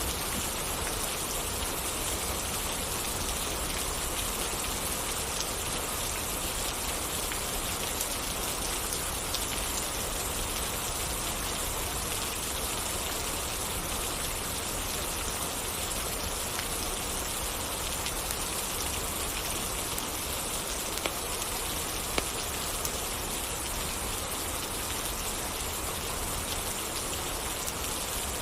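Steady rain falling, an even hiss, with a couple of sharp ticks a little past the middle.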